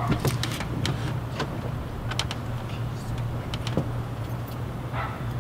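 Mitsubishi Lancer Evolution X's turbocharged four-cylinder engine idling steadily through a custom exhaust, with a few light clicks and knocks over it.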